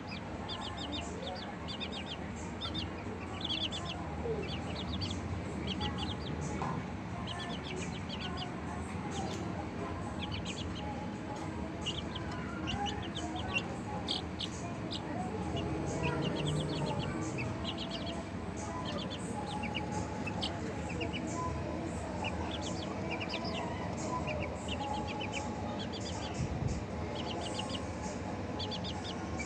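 Flock of Light Sussex chickens clucking, with many short bursts of high, rapid chirping throughout.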